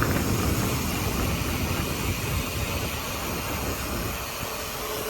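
Road traffic going by: a steady rush of tyre and engine noise with a low rumble, easing off a little toward the end.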